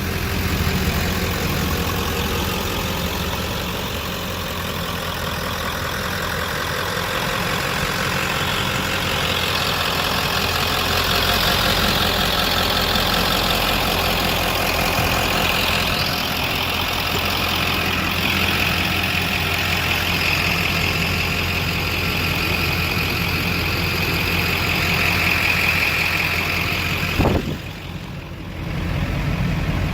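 Ford 7.3 Powerstroke turbo-diesel V8 idling steadily. Near the end a click comes and the sound drops away for about a second before returning.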